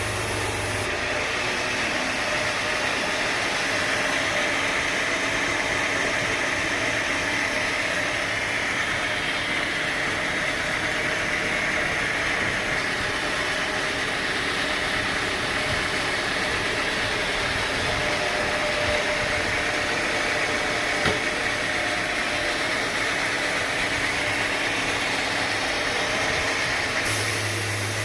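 Sawmill machinery running steadily: a continuous engine-and-saw noise. The sound changes about a second in and again near the end, as a cut starts and stops.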